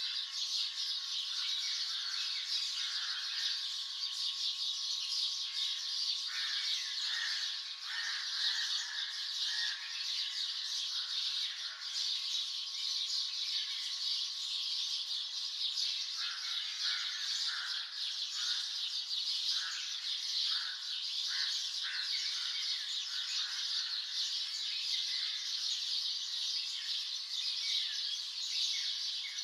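Dawn chorus of many songbirds chirping and calling at once. It is a dense, unbroken wash of high twittering with shorter, lower chirps scattered through it.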